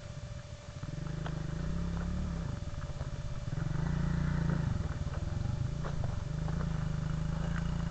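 Small off-road vehicle engine running at low revs with a fast pulsing note, swelling a little around the middle.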